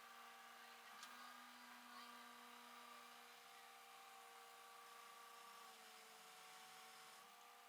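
Near silence with a faint steady hum and a couple of faint ticks.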